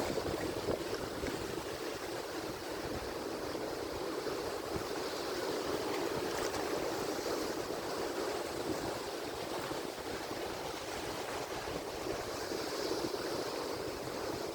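Atlantic Ocean surf: a steady wash of breaking waves that swells and eases gently, with no single crash standing out.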